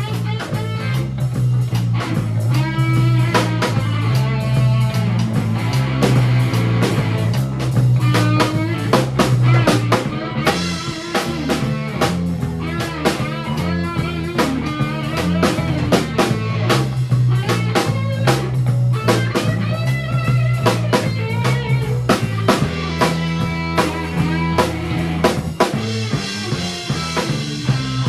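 Live band playing an instrumental break: a guitar lead with bending notes over bass and a drum kit keeping a steady beat.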